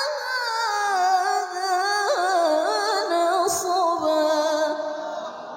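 A female qari'ah chanting the Quran in melodic tilawah style, drawing out one long ornamented phrase with quick turns in pitch. The pitch settles lower partway through, and the voice fades away near the end.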